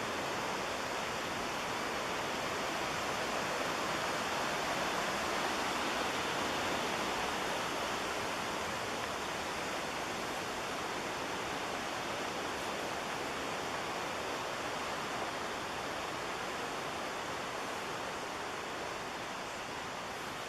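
Rushing water of the McKenzie River, a steady even roar that swells a little midway and eases slightly near the end.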